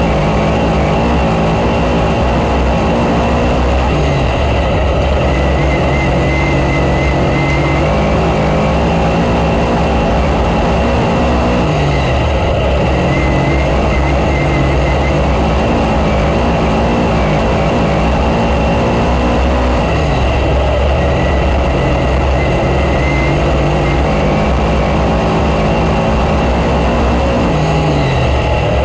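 Dirt-track race car engine running hard through laps, its pitch holding high down the straights and dropping briefly every four to eight seconds as the driver lifts for the turns, then climbing back on the throttle.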